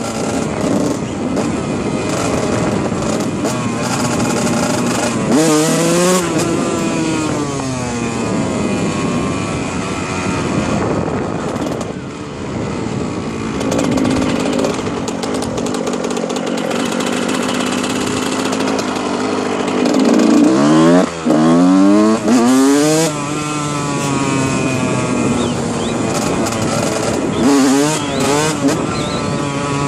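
Dirt bike engine running while being ridden, its revs rising and falling over and over, with quick sharp revving about five seconds in, around twenty to twenty-three seconds, and again near the end.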